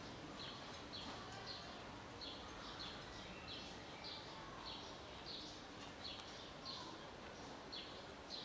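A bird chirping over and over in short, falling notes, about two a second, over faint steady background noise.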